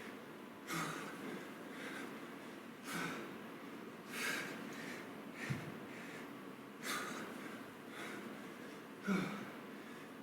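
A man breathing hard from exertion, with forceful exhales and gasping inhales every second or two. A dull thump comes about five and a half seconds in and again near nine seconds.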